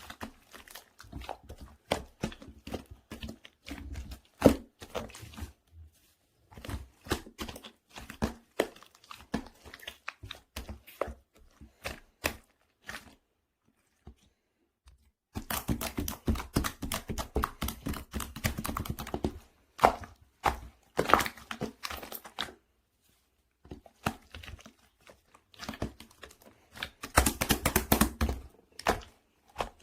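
Handmade green-tea croissant slime being squeezed, stretched and poked by hand, giving dense runs of sticky clicks and crackling air pops, with a few brief pauses between handlings.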